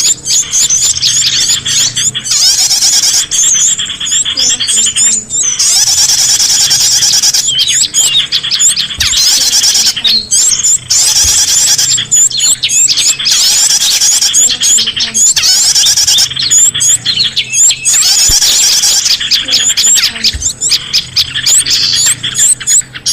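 Bird lure recording of small songbirds: loud, rapid, high-pitched chirping and twittering in dense runs, broken by short gaps every few seconds, played to draw wild birds in.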